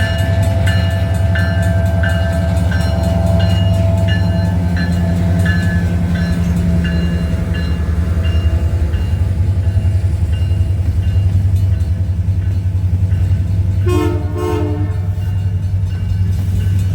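Train rumbling past at close range while a bell dings steadily, a little more than once a second, fading out about halfway through. A short train horn blast sounds near the end.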